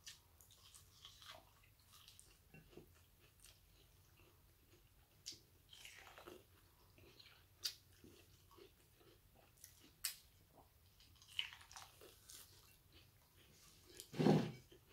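Corn on the cob being bitten and chewed with the mouth close to the microphone: scattered crisp bites and wet chewing clicks, with a louder thump shortly before the end.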